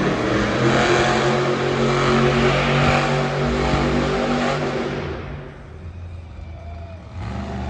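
Monster truck engine running hard at high revs, loud and steady, then dying down about five seconds in and picking up again near the end.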